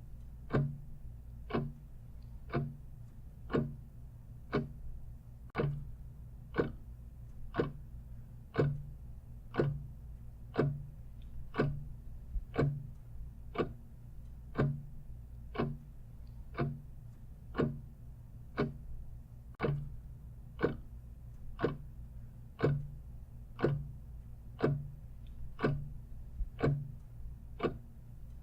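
Clock ticking steadily at about one tick a second, over a low steady hum.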